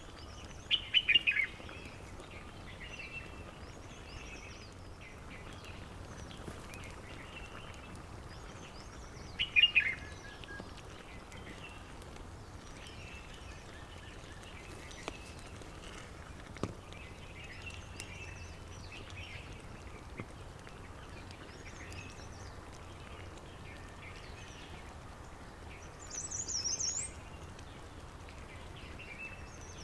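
Wild birds calling. Two loud, quick falling series of notes come about a second in and again near ten seconds, and a higher, rising call sounds near the end, with faint chirping throughout over a steady low background hum. A few isolated faint clicks are also heard.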